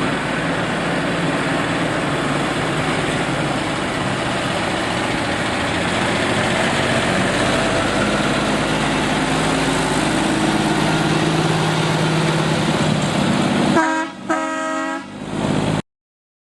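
Truck engine running loudly and steadily, then the horn sounds three short toots near the end.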